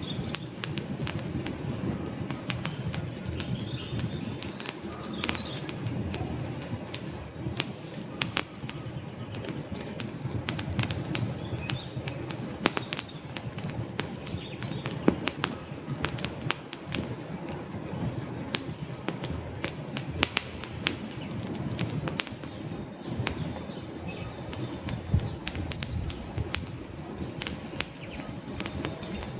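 Wood campfire burning, with irregular sharp crackles and pops of the logs over a steady low rush of flame.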